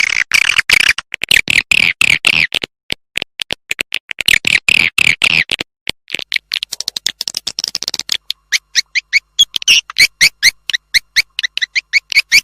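Recorded swiftlet lure call: dense, rapid chittering chirps and clicks. About two-thirds of the way in, these settle into a steady train of short rising chirps, about five a second.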